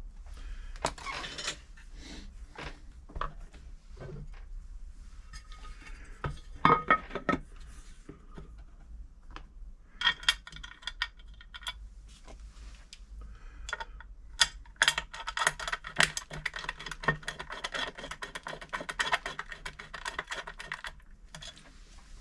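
Screws being put in and turned with a screwdriver to fasten a metal plate back onto a Silver (Pfaff-built) 1139 sewing machine: scattered metal clicks and knocks, then a longer stretch of rapid ticking and scraping in the second half.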